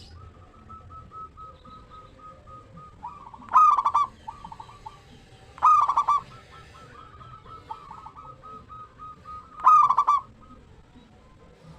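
Zebra dove (perkutut) cooing: three loud bursts of rapid, stuttering coos a few seconds apart. Fainter chains of quick repeated notes run between them.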